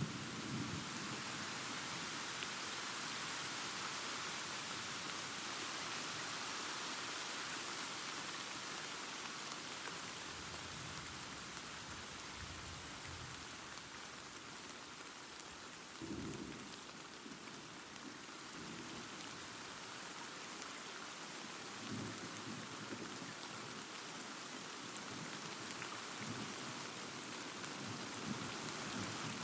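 Steady rain with rolling thunder: a constant hiss of rain, with low rumbles of thunder about ten seconds in, a stronger one about sixteen seconds in, and another near twenty-two seconds.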